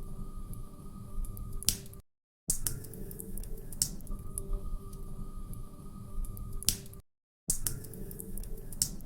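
Log fire crackling and popping, with sharp snaps over a low rumble. It cuts to silence for about half a second twice, about two and seven seconds in, where a short recording repeats.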